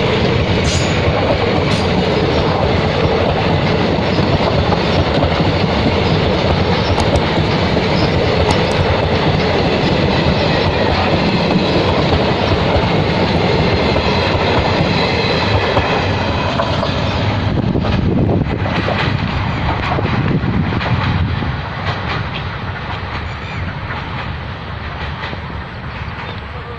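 Passing train: a steady rumble with wheels clattering over the rail joints, fading away over the last few seconds.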